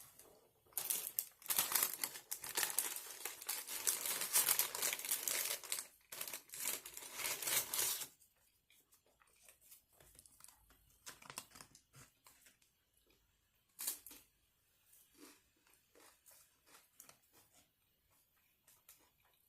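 Fast-food wrapper being crumpled and torn open, a dense crinkling from about a second in until about eight seconds, followed by scattered quieter rustles and small clicks.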